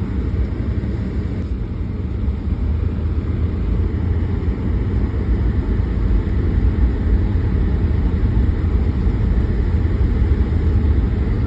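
Vehicle driving on an ice-covered road: a steady low rumble of engine and tyres, growing slightly louder as it goes.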